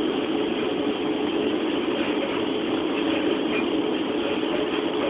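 Steady running noise heard from inside a moving passenger train carriage: an even rumble and hum of the train in motion.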